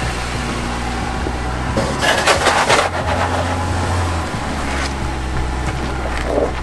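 An off-road 4x4's engine running at low crawling speed, with a brief rushing noise about two seconds in and a short rise in engine note just after.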